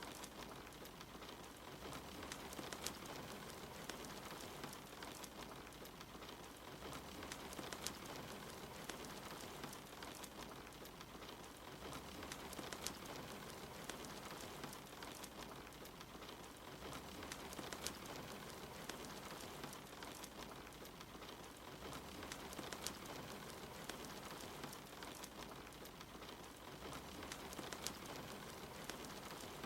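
Steady rain with a wood fire crackling in a fireplace, the crackles coming as scattered sharp pops over the even hiss of the rain.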